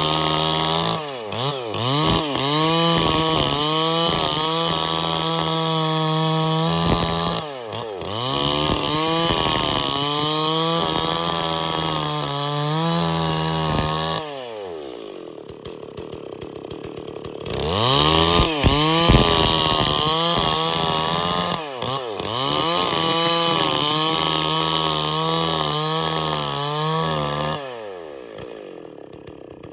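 Large two-stroke chainsaw running at high revs through wood, its pitch repeatedly dipping and recovering under load. About halfway through it drops to idle for a few seconds, revs up and cuts again, then falls back to idle near the end.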